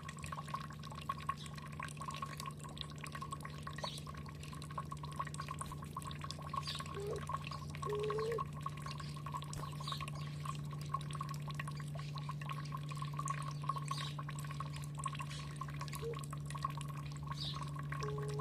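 Water dripping and trickling steadily over a constant low hum, with a few faint short bird chirps now and then.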